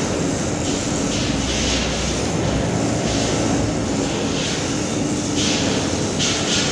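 A machine running steadily: a constant low hum with a faint steady tone, and a hiss that swells and fades at uneven intervals.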